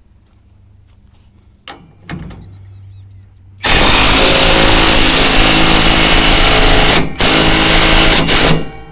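Power drill driving a truck-bed mounting screw: a few handling clicks, then two loud, steady runs of the motor with a short pause between, stopping as the screw is snugged down.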